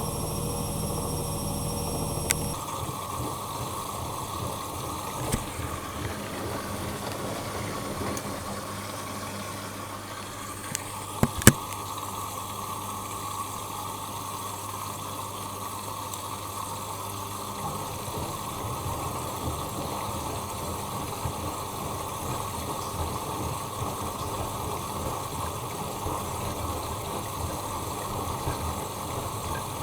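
Bosch Maxx Advantage WFCX2440 slimline washing machine with water rushing through it. A motor hum cuts off a couple of seconds in, a few sharp clicks follow, and a low hum runs through the middle before stopping a little past halfway.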